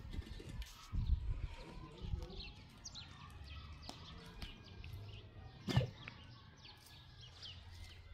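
Small birds chirping in many short calls over low rumbling, with a sharp click about six seconds in.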